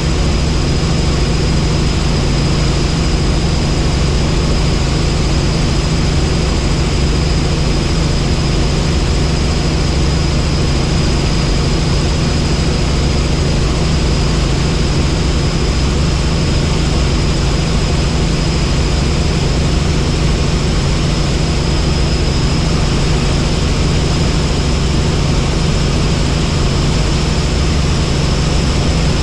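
Helicopter in flight: a loud, steady drone of rotor and turbine engine, with a constant high-pitched whine running over it.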